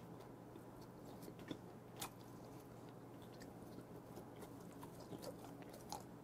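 Faint close chewing of a mouthful of semi-dried herring (gwamegi), with soft wet mouth clicks now and then over a low steady hum.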